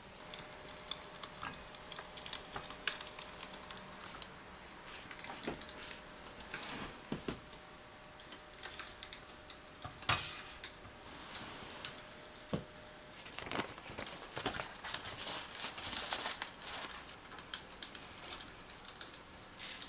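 Scattered light clicks, taps and small knocks of hard objects being handled, with one sharper knock about halfway through and a busier run of ticks near the end.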